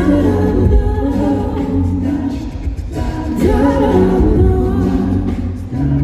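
Voices singing with music, holding long notes, with a new phrase starting about three and a half seconds in.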